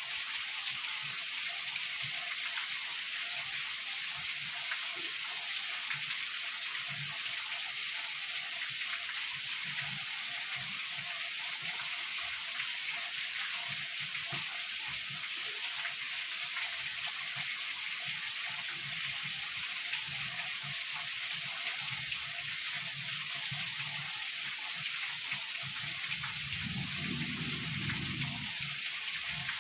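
Heavy rain falling steadily as a dense, even hiss, with a short low rumble of thunder near the end.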